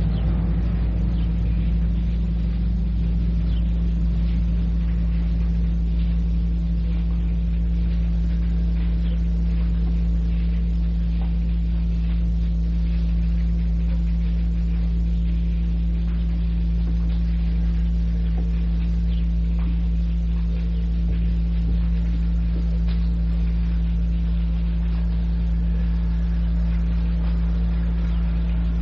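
Steady low hum at an even level throughout, with faint tape hiss and a few scattered faint ticks.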